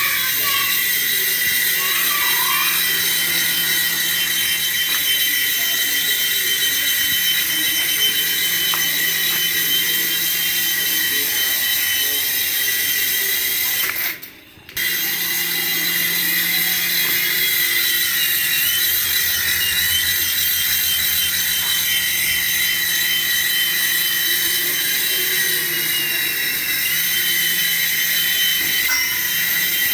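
A toy's small electric motor whining steadily at a high pitch, cutting out for a moment about halfway through.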